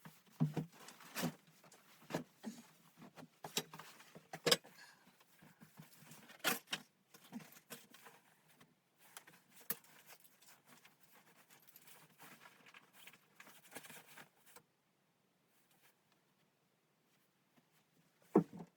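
A run of irregular light knocks and clicks, some louder than others, stopping about fifteen seconds in; then, after a quiet gap, one louder knock near the end.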